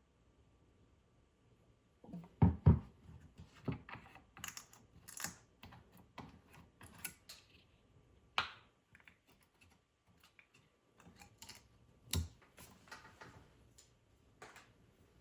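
Irregular light clicks and taps of small objects being handled, with a few louder knocks.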